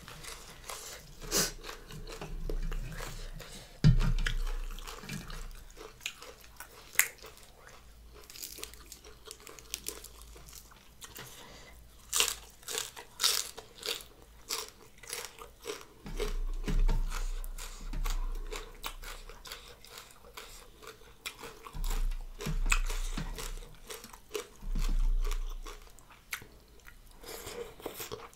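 Close-up mouth sounds of a person eating a spicy Lao-style rice-noodle salad (tam sua) with raw greens by hand: chewing and biting with many sharp smacks and clicks, in irregular bursts with short pauses.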